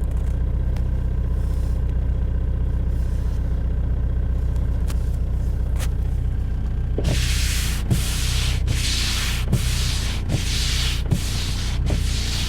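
BMW E46 320d's four-cylinder turbodiesel idling steadily while warming up after a cold start at about 0 °C. About halfway through, a loud rhythmic rubbing, hissing noise starts over the idle, pulsing about one and a half times a second.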